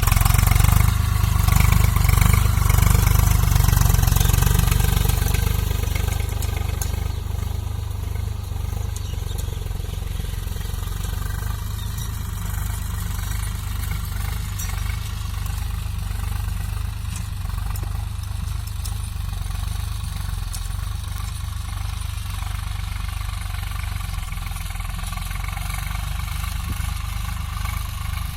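Swaraj 744 tractor's three-cylinder diesel engine running, louder for the first five seconds or so, then settling to a steadier, lower level.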